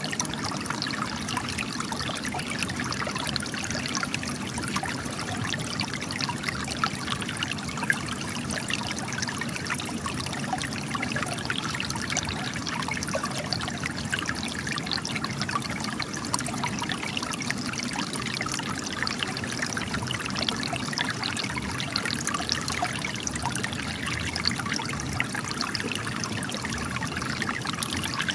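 Spring water gushing and trickling out of cracks in rocks: a steady, continuous splashing trickle with many small bright droplet sounds.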